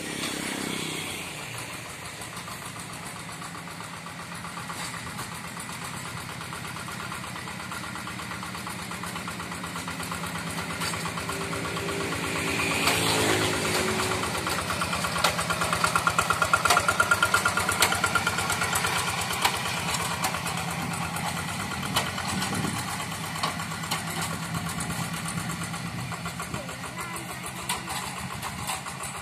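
Two-wheel hand tractor's single-cylinder diesel engine running steadily, growing louder for a few seconds past the middle.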